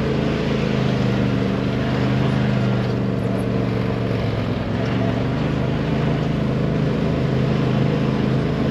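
An engine running steadily: an even low drone with several held tones.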